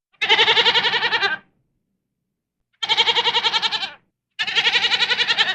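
Three loud, quavering bleats from farm livestock, each about a second long, with short silences between them.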